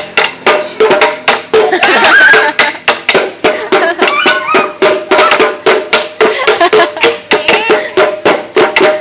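Traditional music with a wood block clicking a quick, even beat at about three strokes a second, under steady held instrumental tones. A wavering voice sings in places.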